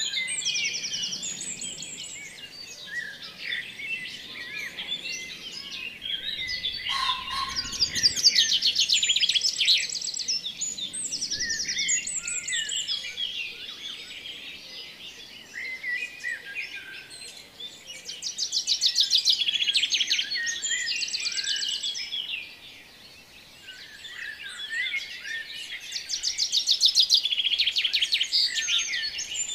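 Many small birds chirping and calling over one another, with a few bursts of fast trilled song.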